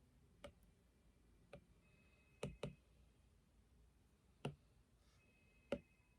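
Light, sharp clicks or taps against near silence: six of them at irregular intervals, two close together about two and a half seconds in.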